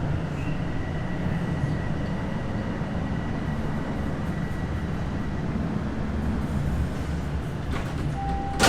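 Bombardier Toronto Rocket subway train running with a steady low rumble and a faint steady high whine. Near the end a steady tone starts and a sharp clunk sounds.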